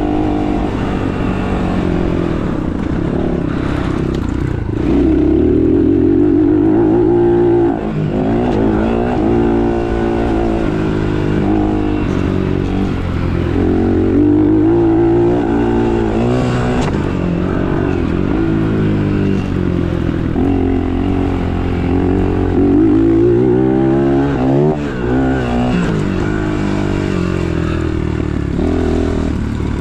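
Dirt bike engines running and revving, the pitch climbing and dropping over and over as the throttle opens and closes, with more than one bike heard at times.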